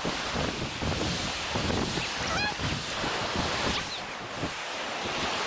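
Lake Michigan waves washing in and wind buffeting the microphone, a steady rushing noise, with a few short honking bird calls about two and a half seconds in and again near four seconds.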